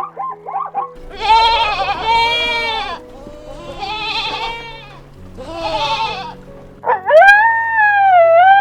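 Goat bleating three times, each a wavering cry of a second or two, over background music. A quick run of short calls fades out in the first second, and a longer, steadier animal call starts near the end.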